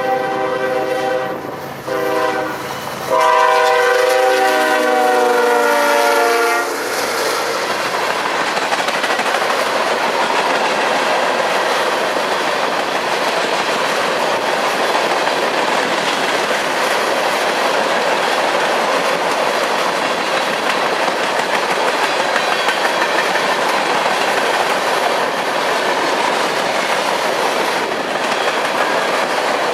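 Freight train's diesel locomotive horn: a blast, a short break, then a louder blast about three seconds in whose pitch drops as the locomotive passes. After that comes the steady rumble and clickety-clack of the cars rolling by.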